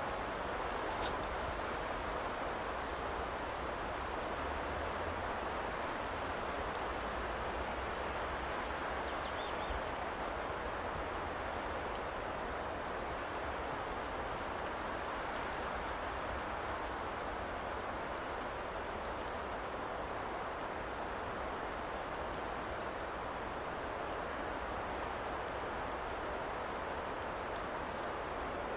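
Steady, even hiss of a woodland ambience background track, with faint small high ticks scattered through it.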